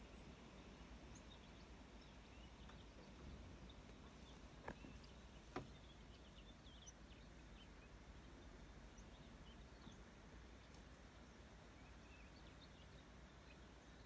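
Near silence outdoors, with faint small bird chirps scattered throughout and two soft clicks about a second apart, about five seconds in.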